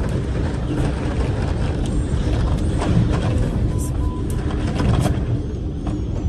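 Strong tornado wind rumbling and buffeting the microphone in a steady, loud roar of noise.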